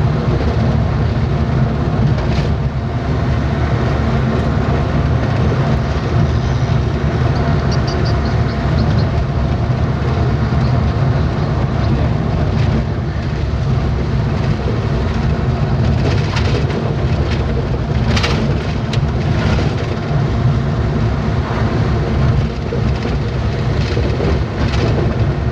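Vehicle driving, heard from inside the cabin: a steady loud engine hum and road rumble, with a few short knocks and rattles about two thirds of the way through.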